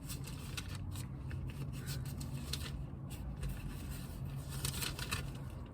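Faint rustling and handling noises, many small scattered scrapes and clicks, as something is searched for by hand, over a steady low hum.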